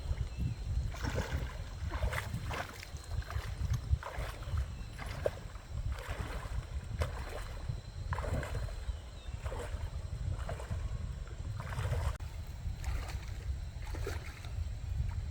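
The repaired tractor's engine running steadily with a low rumble, with short irregular higher-pitched sounds over it every second or so.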